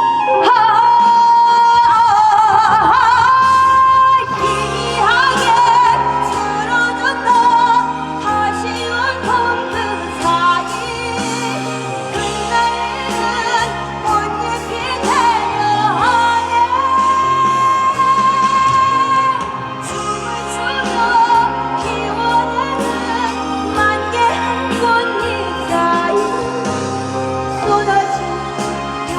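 Female singer performing a slow ballad over instrumental accompaniment, with long held notes in the melody.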